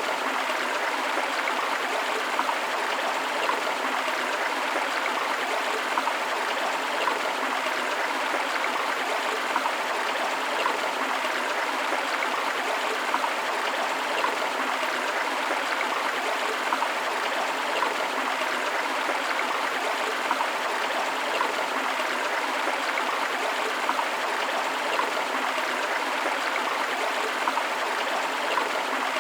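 River water flowing in a steady rush, with a waterfall blended in. It makes an even hiss with little deep rumble, broken by small irregular splashes.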